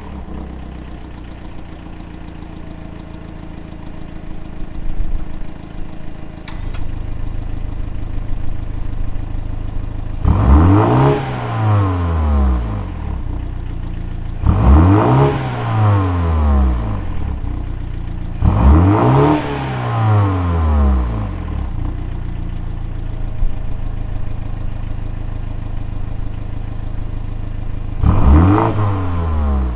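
A 2021 BMW M235i Gran Coupe's turbocharged four-cylinder engine, started from cold, idling through its exhaust. About six and a half seconds in there is a click and the idle grows louder as the Sport-mode exhaust valve in the left tailpipe opens. It then gets three short free revs a few seconds apart, each rising and falling back to idle, and a fourth near the end.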